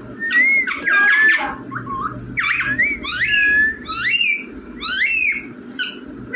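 Pet Indian ringneck parrot giving a run of whistled calls that glide up and down, mixed with short harsh squawks, about eight calls in all.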